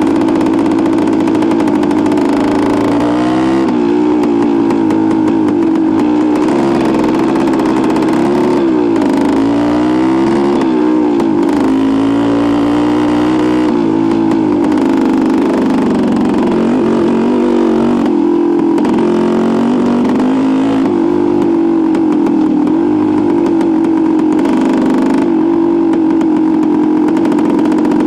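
Freshly rebuilt 1973 Suzuki TS250's single-cylinder two-stroke engine running while the bike is ridden. Its pitch rises and falls several times as the throttle opens and closes, then holds steadier near the end.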